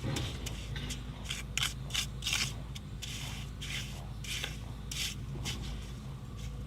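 Repeated scraping strokes, about two a second and unevenly spaced, with a steady low hum underneath.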